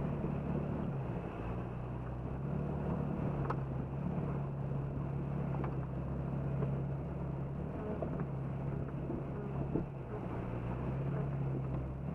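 Jeep Cherokee XJ engine running steadily at low revs, an even hum under a steady rushing noise.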